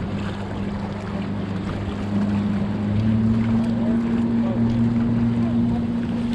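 Boat motor running with a steady hum; its pitch and level step up a little about three seconds in.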